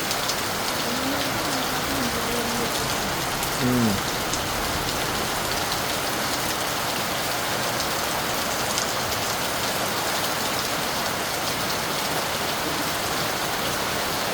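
Steady rain falling on a house roof, a dense even patter. A faint wavering pitched sound rises and falls briefly between about one and four seconds in.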